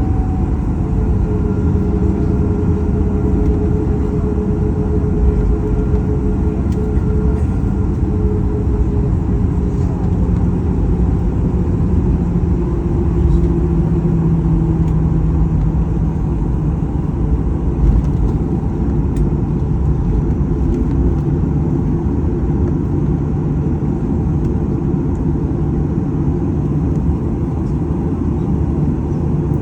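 Cabin noise of a Boeing 737-800 heard from a forward window seat: jet engines and airflow making a loud, steady noise, with a few faint tones that drift slowly in pitch.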